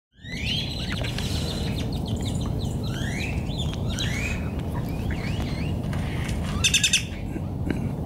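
A group of small black birds calling from bare trees, giving repeated rising whistled notes and a quick burst of high chattering notes, the loudest moment, near the end, over a steady low rumble.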